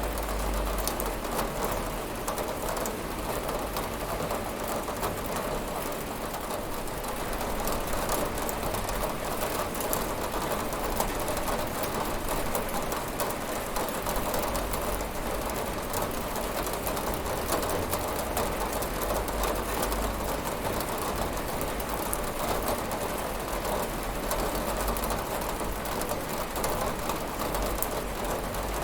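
Steady rain falling on a window, an even hiss with no thunder.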